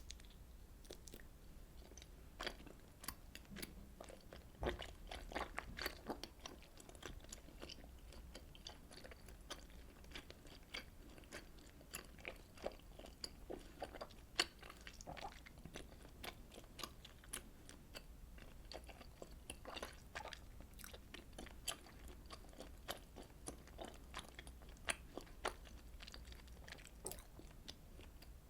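Close-miked chewing and mouth sounds of eating Korean fish cake soup: a steady run of small wet smacks and sharp clicks, with no talking.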